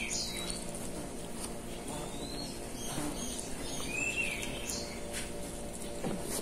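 A few short bird chirps, each a quick up-and-down note, over a steady low hum.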